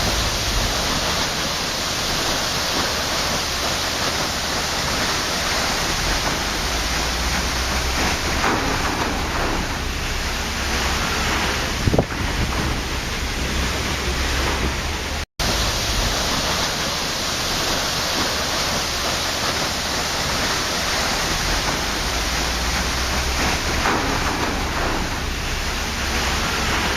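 Waterfall rushing steadily: a dense, even wash of falling water with no let-up, broken only by a split-second gap of silence about halfway through.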